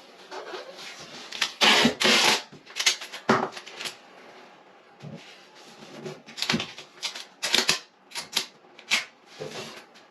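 Tape being pulled off the roll and pressed down along the edge of a bathtub. It gives irregular ripping rasps, a couple of them longer, amid clicks and taps.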